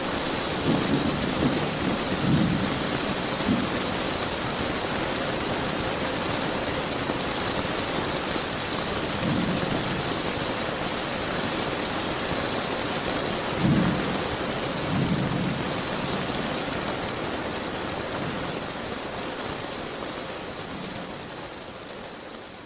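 Steady rain with several low rumbles of thunder: a few in the first seconds, then others about nine and fourteen seconds in. The rain fades out gradually near the end.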